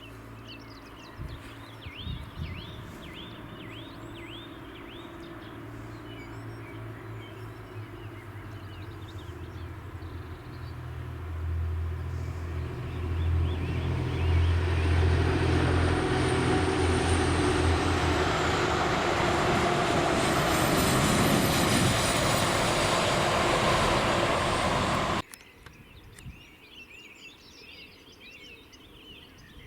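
A train approaching and passing close by: a low engine hum builds over several seconds into a loud rushing noise, which cuts off abruptly about 25 seconds in. Birds chirp in the first few seconds and again after the cut.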